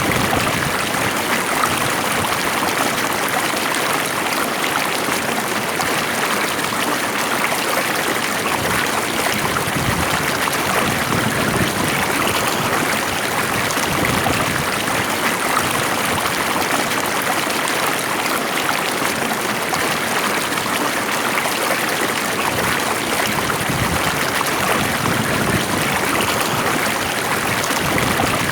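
Stream water flowing steadily with a gentle trickling rush.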